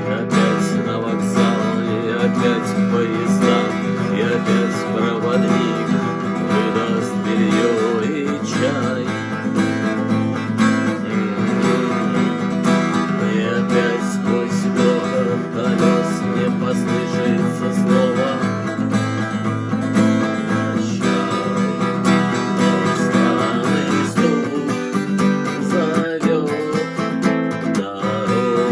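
Acoustic guitar strumming steadily, an instrumental passage without singing.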